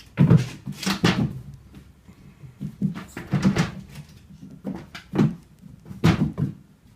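A series of irregular knocks and bangs, about ten in all, several coming in quick pairs, like a cupboard door or other wooden fitting being knocked or swung in a small room.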